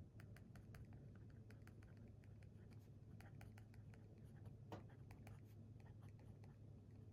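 Faint writing on paper: quick, irregular scratchy strokes of a pen tip, over a low steady hum.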